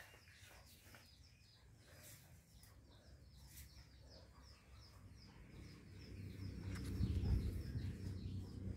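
Small birds chirping faintly in quick, repeated high notes. A low rumbling noise swells in after about five seconds and is loudest around seven seconds.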